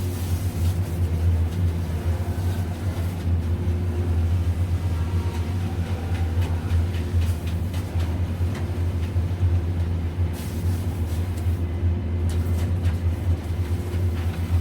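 A heavy engine running steadily at a constant pitch, with light knocks from the work over it.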